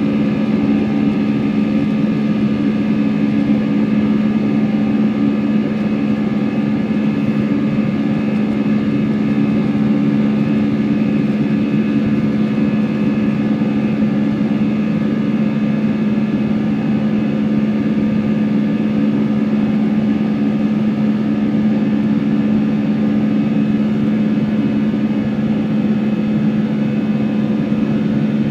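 Airbus A320 jet engines heard from inside the passenger cabin: a steady, unchanging drone with a strong low hum.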